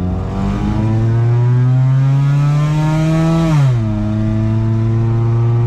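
A 2004 Honda Civic's four-cylinder engine pulling hard under acceleration, its pitch climbing steadily. It drops sharply about three and a half seconds in as it shifts up a gear, then pulls again.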